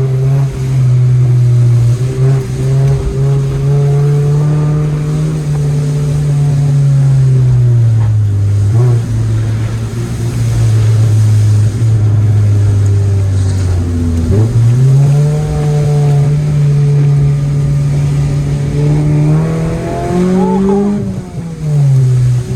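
Car engine under hard driving, its note sagging and rising with the throttle. It jumps up sharply about two-thirds of the way through, climbs, then falls away near the end.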